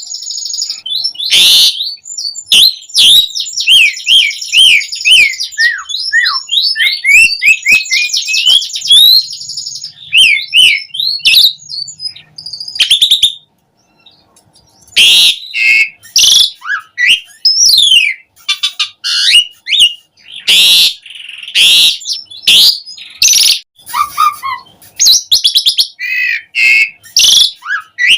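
Asian pied starling (jalak suren) singing loudly in a long, varied run of whistled glides, rapid chirping series and sharp, harsh scratchy notes. The song breaks off briefly about halfway through, then starts again.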